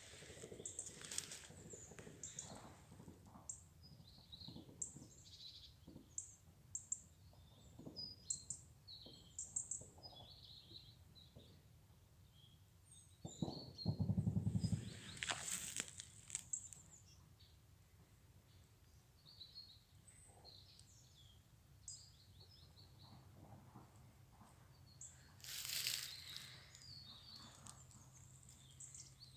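Small birds chirping in short, high, scattered calls, faint. There are brief rustles in dry grass, and a loud low thump about 14 seconds in.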